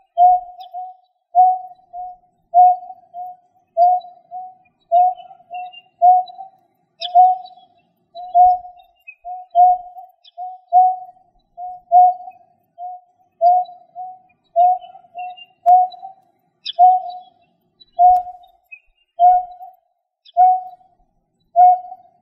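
A bird calling with a short, low, pitched note repeated steadily, about one or two a second and often in close pairs, with faint higher chirps of other birds behind it.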